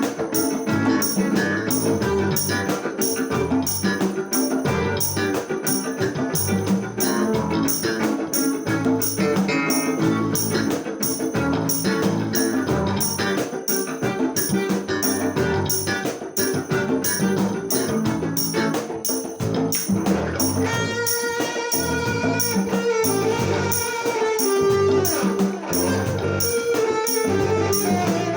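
Instrumental passage from a small music ensemble: a steady percussive beat of about two strokes a second over strummed and plucked accompaniment. About two-thirds of the way in, a melody of long held notes comes in on top.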